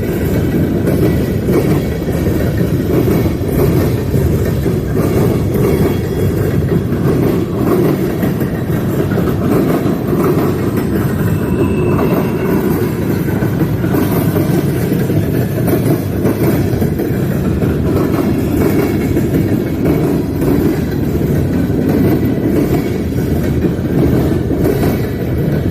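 Freight train rolling past at steady speed: a continuous loud rumble of the cars, with the wheels clacking over rail joints all through.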